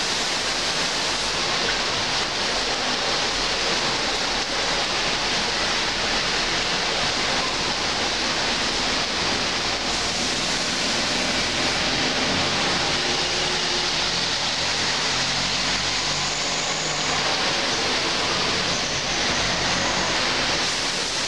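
Heavy rain pouring steadily on trees and leaves, a dense even hiss that does not let up.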